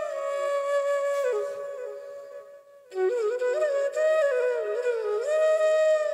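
Solo flute playing a slow, calm melody of long held notes; one phrase fades out and breaks off briefly a little before halfway, then a new phrase begins.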